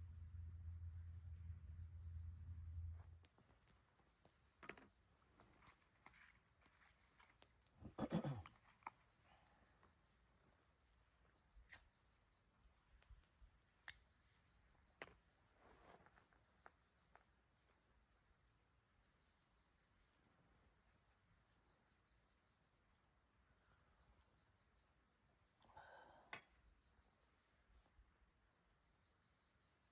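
Insects chirring in a steady, high, pulsing chorus. A low hum stops about three seconds in, and there are scattered faint clicks, with a louder knock about eight seconds in.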